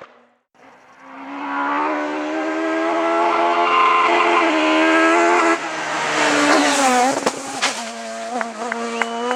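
Citroën Xsara rally car at full throttle, its engine note climbing after a brief gap. The pitch then drops sharply as the driver lifts and brakes. It settles to a lower note with a run of sharp cracks and tyre squeal near the end.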